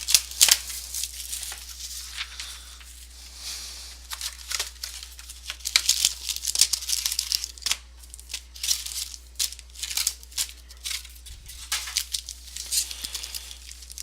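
Plastic trading-card packaging being torn open and crinkled by hand, a run of irregular sharp rips and rustles as a new box of cards is unwrapped.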